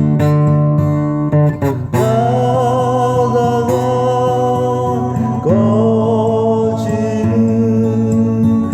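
Strummed acoustic guitar with a voice singing along, holding two long, wavering notes, the first from about two seconds in and the next from about five and a half seconds.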